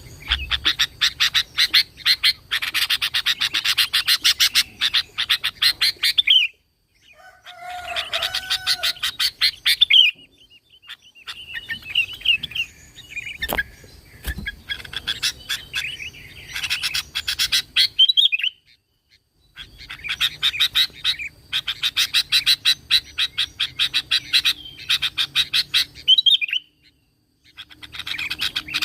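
Sooty-headed bulbul (kutilang) singing its original song in bouts of fast, rapidly repeated chattering notes mixed with some slurred whistled phrases, broken by a few brief silences.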